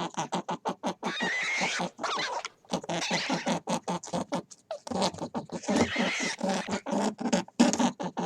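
An animal calling in a quick run of short, repeated pulses, several a second, with a few longer noisy stretches.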